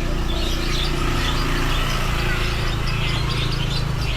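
Many small caged birds chirping and twittering over a steady low hum.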